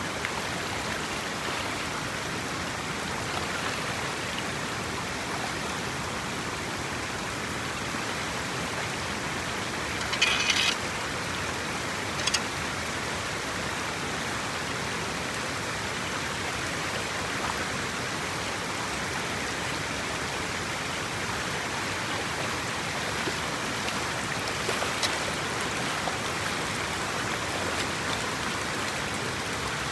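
Steady rush of water, with a brief louder splash or clatter about ten seconds in and a sharp knock about two seconds later.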